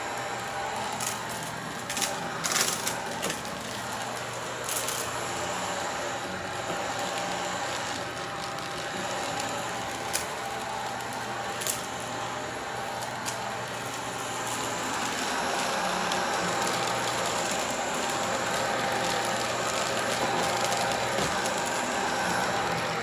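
Upright vacuum cleaner running over a rug, with sharp clicks and rattles of debris being sucked up, most of them in the first dozen seconds. The motor grows louder about fifteen seconds in.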